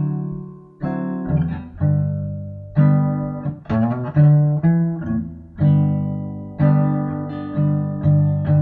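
Acoustic guitar strumming chords, about one strum a second, each ringing out before the next.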